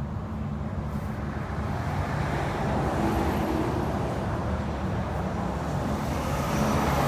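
Steady low rumble with a faint hum underneath, slowly growing a little louder.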